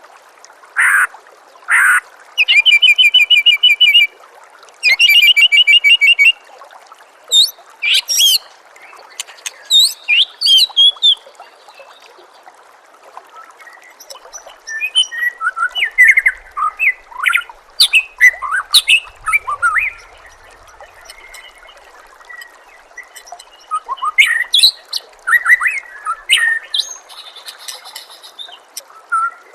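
White-rumped shama (murai batu) singing a varied song: two rapid trills in the first few seconds, then bursts of quick chirps and whistled notes that come thickest in the middle and near the end. A faint steady trickle of water runs underneath.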